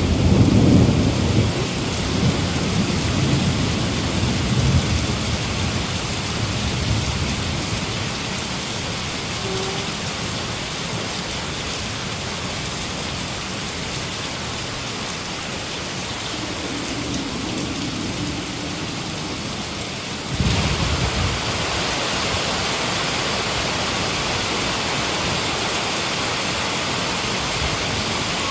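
Heavy rain falling steadily, with a loud low thunder rumble at the start that dies away over the first several seconds. About twenty seconds in there is a short low rumble and the rain suddenly turns louder and hissier.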